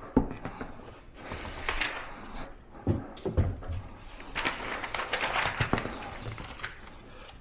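Paper towel sheets rustling as they are handled, with a few light knocks.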